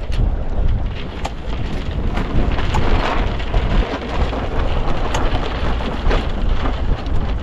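Wind buffeting the microphone with a steady low rumble aboard a sailboat under way, with water splashing and a few brief sharp splashes or knocks.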